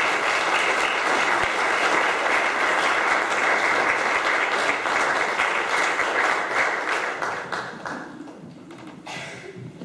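Congregation applauding in welcome, loud and steady for about seven seconds, then dying away near the end.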